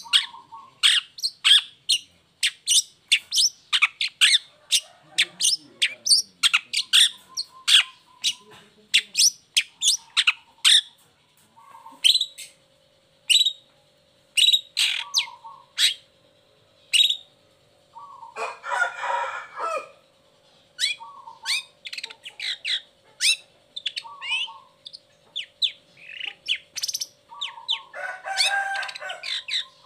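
Long-tailed shrike (cendet) singing at full volume: a fast run of sharp, high, down-slurred notes with lower notes between them, broken twice, past the middle and near the end, by a harsh rasping call.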